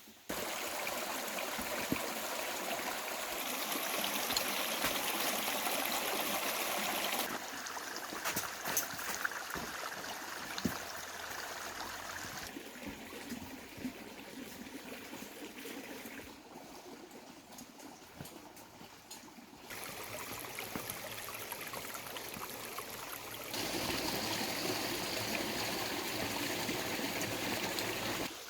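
A stream flowing, a steady rush and trickle of water whose loudness and tone change abruptly every few seconds.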